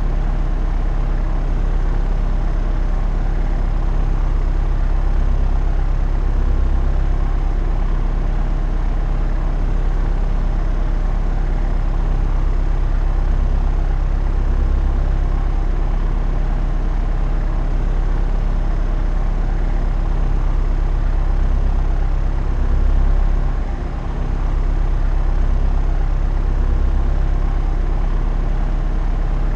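Propeller aircraft in flight: a steady, loud drone of engine and propeller with a deep, even hum. The level dips briefly about four-fifths of the way through, then returns to the same drone.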